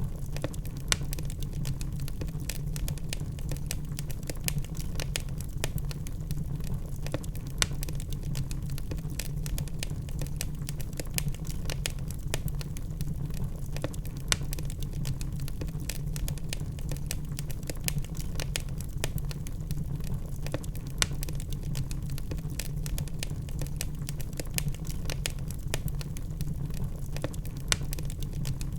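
Wood fire in a fireplace crackling, with many small irregular pops and snaps and a few louder ones over a steady low rumble of the burning logs.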